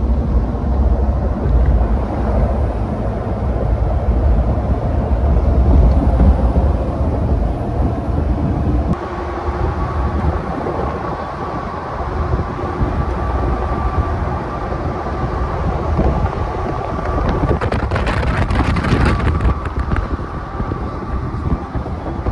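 Road rumble and wind noise from a pickup truck driving at speed. The low rumble is heavy at first and eases about nine seconds in, when a steady whine sets in. A short rush of wind hiss comes near the end.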